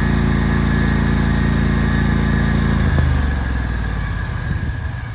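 Riding lawn mower engine running steadily and loud, then switched off about three seconds in with a click, winding down in a few uneven low chugs to a stop.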